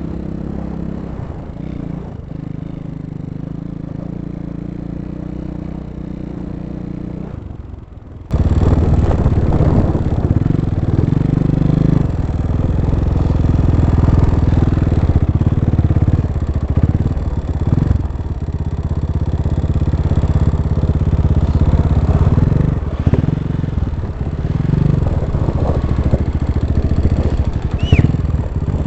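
250 cc single-cylinder dirt bike engines running: fairly steady at first, then about eight seconds in, much louder and closer, with revving that rises and falls.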